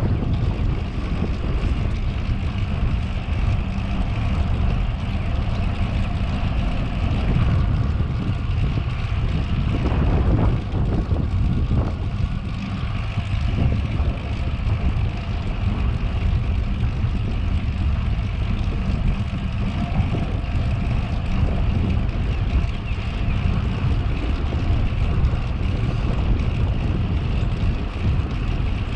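Steady wind buffeting a camera microphone while cycling, heard as a loud, unbroken low rumble.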